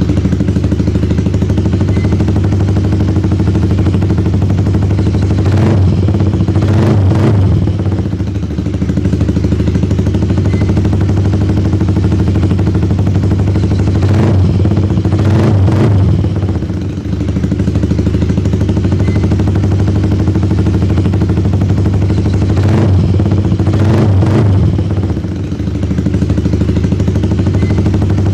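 Yamaha R15's single-cylinder four-stroke engine idling through an aftermarket M4 full-system racing exhaust, revved up three times, about 6, 15 and 23 seconds in, with the level dropping briefly as each rev falls back to idle.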